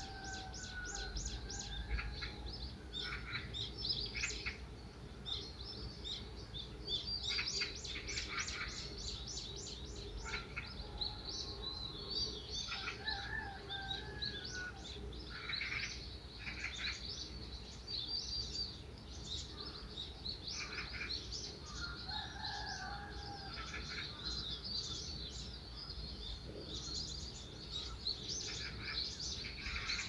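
Several birds chirping and singing: quick runs of high chirps and trills, mixed with lower whistled phrases.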